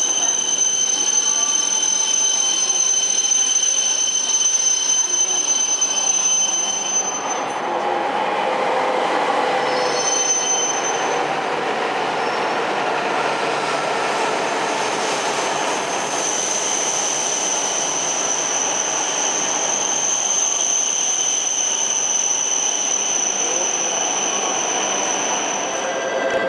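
Coupled E5 and E6 series Shinkansen train running along the platform: a steady rumble of the running gear with a continuous high-pitched squeal, which breaks off about a quarter of the way in and returns later.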